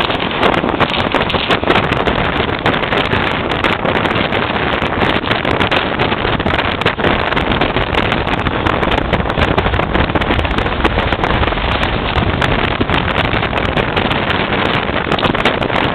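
Strong wind blowing across the microphone: loud and unbroken, with constant crackling buffets.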